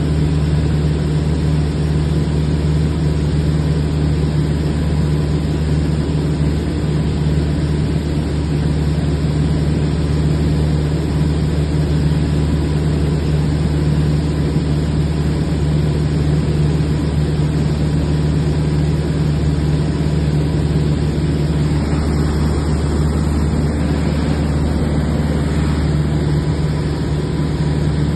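Single-engine piston light-aircraft engine droning steadily in cruise, with a constant low pitch and no rise or fall.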